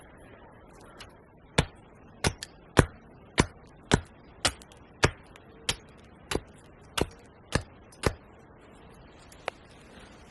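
An axe striking wood about a dozen times in an even rhythm, roughly one sharp blow every half second, stopping about two seconds before the end.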